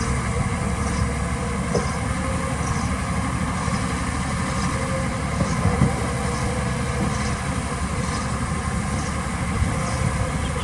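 Heavy-equipment diesel engine running steadily.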